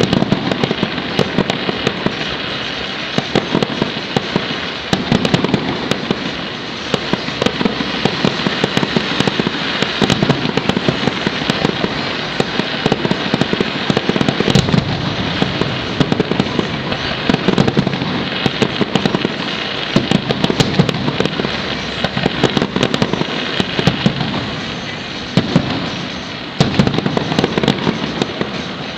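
Aerial fireworks bursting in quick succession: a dense, unbroken run of sharp bangs, pops and crackling.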